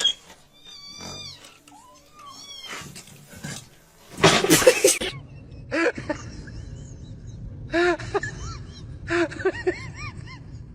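Cats meowing: thin, high mews early on, a louder cry about four seconds in, then a run of short meows that rise and fall in pitch.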